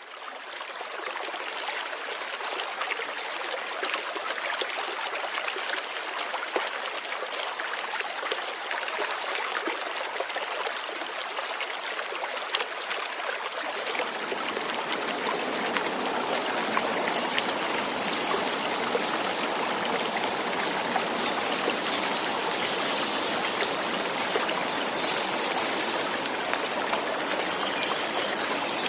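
Light rain falling: an even hiss peppered with countless small drop patters, fading in at the start. About fourteen seconds in, a fuller, deeper wash of water joins and the sound grows slightly louder.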